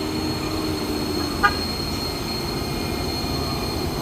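Heavy truck traffic on a steep mountain road: a steady rumble of engines and tyres with a constant thin high whine over it. A short horn beep comes about a second and a half in.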